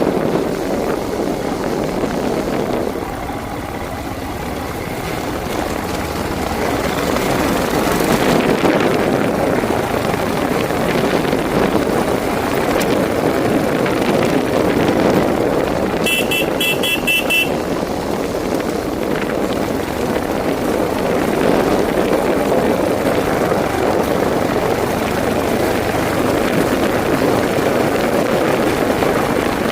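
Motorcycle riding noise: steady engine and road rumble with wind on the microphone. About halfway through, a vehicle horn sounds in a quick run of short beeps.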